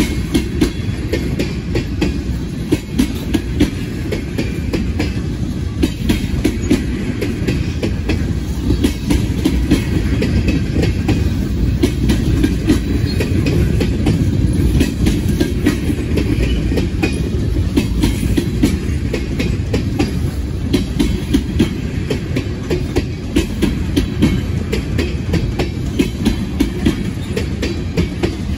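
Freight train tank cars rolling past: a steady low rumble with a rapid run of wheel clicks and knocks over the rail joints.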